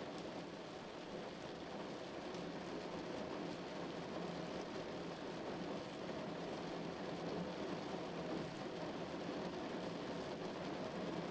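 Rain falling steadily on a car roof while driving, a dense even patter with a steady low hum underneath.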